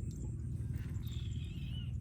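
A short, high, wavering animal call that falls slightly in pitch, starting about a second in, over a steady low rumble.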